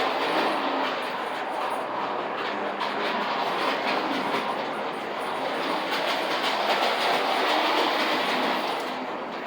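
Early Lionel electric toy trolley running on its track: a steady whirring rattle from the motor and wheels, with fine rapid clicking.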